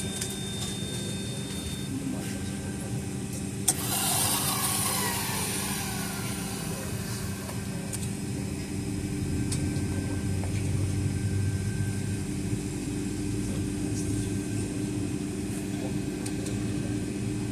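Cabin noise of a Boeing 757-200 on the ground before takeoff: a steady hum of its Pratt & Whitney PW2037 engines at low power and the cabin air. A sharp click about four seconds in is followed by a brief falling whine.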